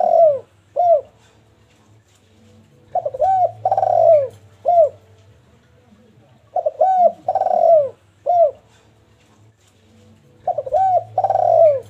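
Spotted dove (derkuku) cooing, giving the same phrase over and over about every three and a half seconds: a few short coos, one longer falling coo, then a short final coo.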